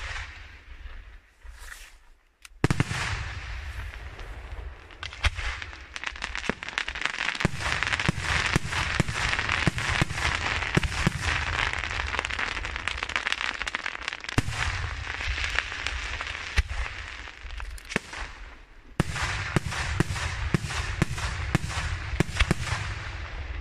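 Aerial fireworks display: shells bursting with sharp bangs over a dense, continuous crackle of falling glitter. There is a bang at the very start and a short lull, then the crackle starts loud about two and a half seconds in, and near the end comes a fresh run of rapid bangs, two or three a second.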